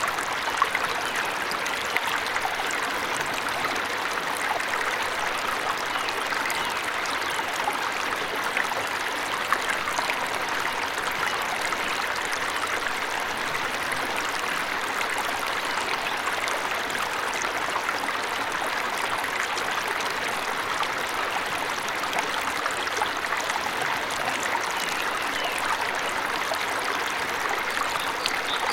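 Water of a forest waterfall splashing and babbling steadily, an even rushing hiss with no let-up.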